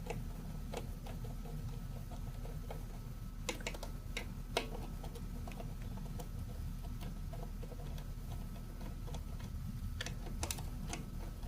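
Scattered small clicks and taps from a screwdriver working a screw out of a Stihl BR 380 backpack blower's cover, with a few louder clicks about four seconds in and near the end. A steady low hum runs underneath.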